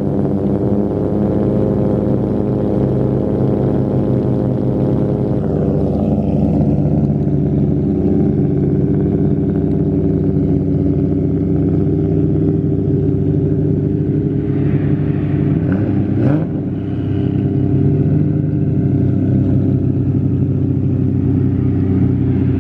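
Car engine running steadily with a constant drone. About sixteen seconds in, the engine pitch rises briefly and there is a sharp click.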